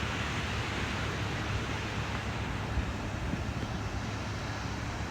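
Steady noise of wind and ocean surf on the beach, with a low wind rumble on the microphone.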